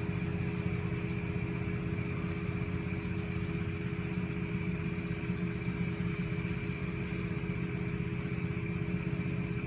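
A steady, unchanging low machine hum of a motor running.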